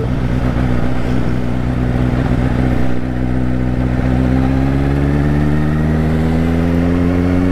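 Kawasaki Ninja H2's supercharged inline-four engine running steadily at cruising speed, its pitch rising slowly over the second half as the throttle is eased open.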